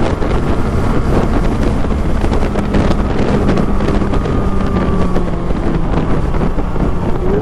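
Motorcycle running steadily at highway speed, its engine a constant drone under heavy wind noise buffeting the microphone.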